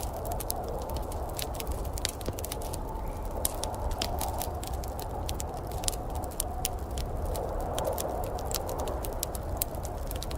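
Wood fire in a fireplace crackling, with many quick, irregular sharp pops over a steady low rumble.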